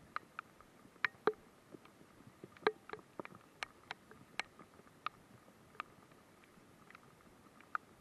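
Raindrops tapping close to the microphone, a few irregular sharp ticks a second over a faint hiss of light rain.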